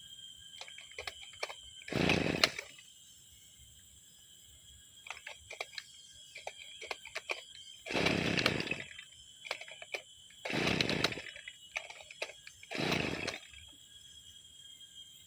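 Brushcutter engine being pull-started four times: each recoil-starter pull gives a brief burst of cranking that dies away without the engine catching, with small clicks of handling between the pulls. The machine has stood unused for six months and is hard to start.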